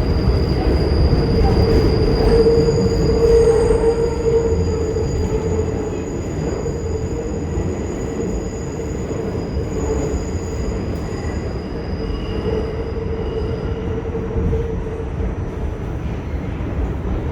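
R46 subway car running through the tunnel with a steady rumble and high, steady wheel squeal, the squeal loudest in the first few seconds and easing as the train slows into the terminal station.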